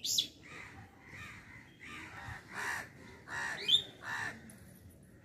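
Birds calling: a string of short harsh calls, about one every 0.7 seconds, with a sharper, higher call near the start and the loudest one a little before four seconds in.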